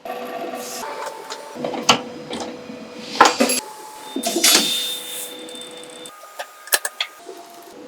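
Automatic drilling, chamfering and tapping machine running: a steady motor tone with brief higher whines, and scattered clicks and clunks from the mechanism, the loudest about three seconds in.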